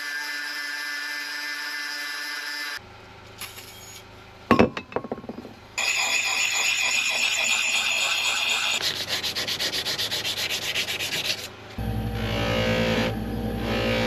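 Abrasive rubbing and sanding on a steel axe head in several short cut clips, with a few sharp knocks about four and a half seconds in. Rhythmic scraping strokes follow in the middle, and a power tool's motor starts running near the end.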